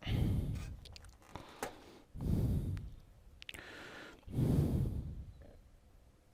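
A person's heavy breath exhaled close to the microphone three times, about two seconds apart, with a few small clicks between the breaths.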